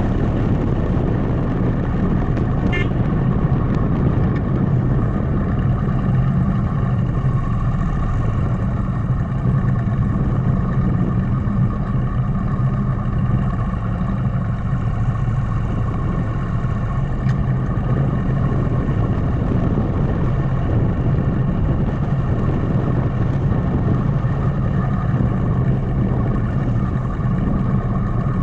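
Motorcycle engine running steadily under way, its hum and road noise constant with no change in revs. There is a brief high-pitched sound about three seconds in.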